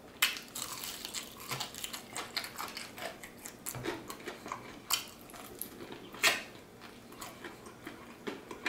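Crispy battered fried chicken wing crust crunching as it is bitten and chewed: a run of sharp, irregular crunches, the loudest about a quarter second in, about five seconds in and about six seconds in.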